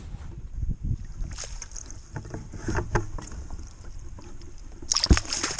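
Knocks and splashing in a kayak as a hooked walleye is brought aboard, with a loud sudden splash about five seconds in.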